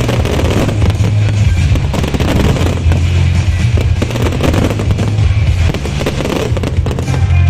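Fireworks crackling and popping over loud music with a heavy, steady bass.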